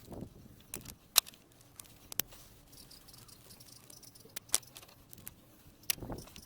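Scattered sharp metallic clicks and clinks of hand tools working on the engine, the loudest about a second in.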